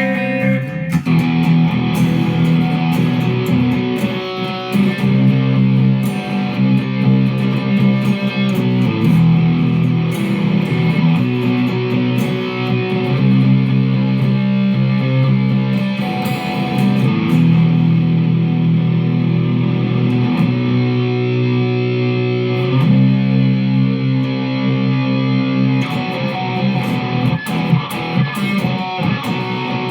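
Electric guitar being played solo: held notes and chords that ring on for a second or more, with sharp picked attacks between them.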